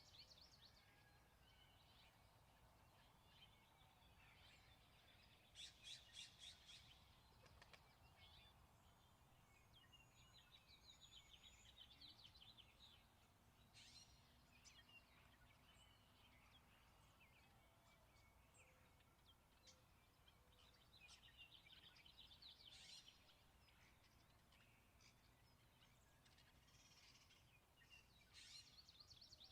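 Songbirds singing faintly, with a rapid trilling phrase repeated every few seconds; the loudest phrase comes about six seconds in.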